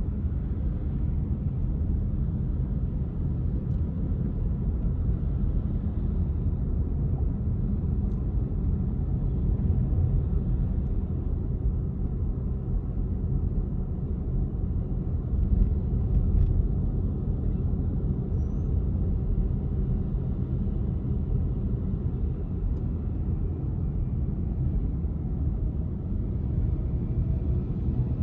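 Car driving along city streets: steady low rumble of engine and tyre noise.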